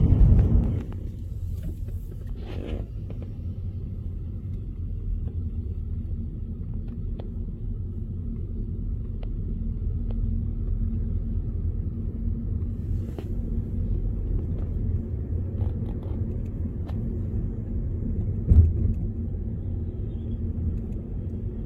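Steady low road rumble of a car being driven, as heard inside the cabin, with scattered faint ticks and a short louder bump late on.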